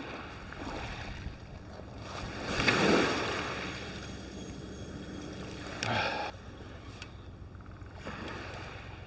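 Wind and sea noise on an open shore, with a louder swell about three seconds in and a shorter louder patch around six seconds.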